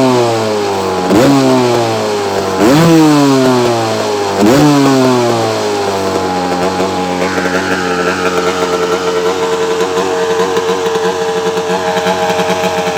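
1985 KTM 250 two-stroke single-cylinder engine (type 544) being blipped: four quick throttle revs, each rising sharply and falling back, then settling into a steady idle for the second half.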